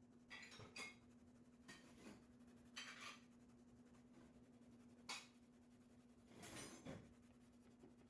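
Scattered light clicks and short scrapes of small hard objects being handled, over a steady low hum.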